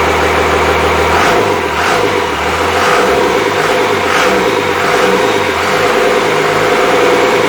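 Freshly rebuilt Cummins 5.9L 12-valve inline-six diesel running, steady at first, then from about a second in its speed rises and falls several times.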